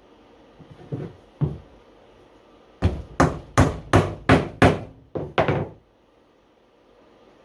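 A hammer striking nails into wooden beehive parts during kit assembly. There are two lighter taps about a second in, then a quick run of about eight blows, roughly three a second.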